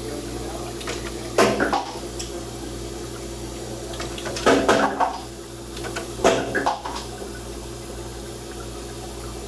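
Hoshizaki KM-660MRJ ice machine in its first harvest cycle: ice drops off the evaporator into the bin in three short bursts, about 1.5, 4.5 and 6.5 seconds in, over the machine's steady hum.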